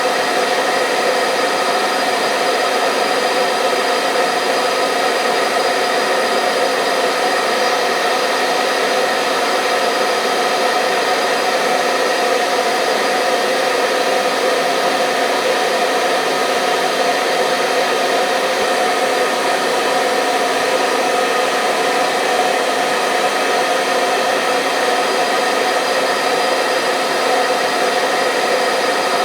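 Electric hair dryer running steadily: a constant rush of blown air under a steady motor and fan whine of several fixed pitches, with no change in speed or level.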